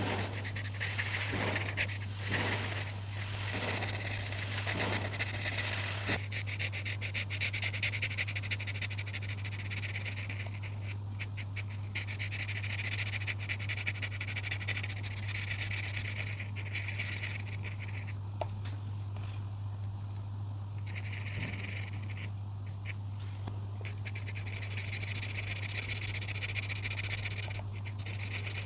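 Coloring tool scratching across paper in repeated back-and-forth strokes, rhythmic for the first few seconds, then denser with brief pauses, over a steady low hum.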